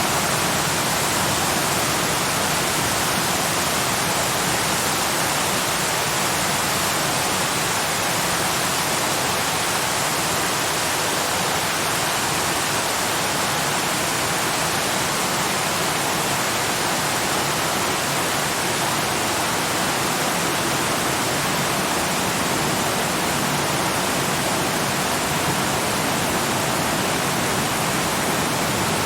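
Waterfall: falling water rushing steadily, a bright hiss with little low rumble.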